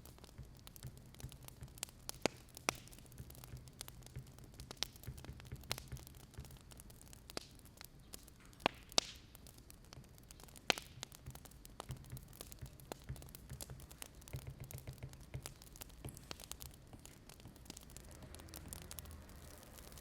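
Wood fire crackling: irregular sharp pops and snaps over a faint, steady low rumble.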